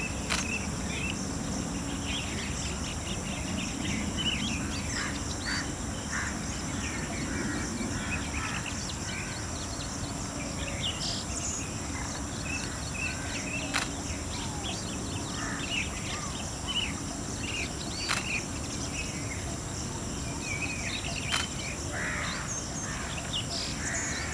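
Several wild birds calling with short, scattered chirps over a steady high-pitched hum and a low background rumble, with a few sharp clicks.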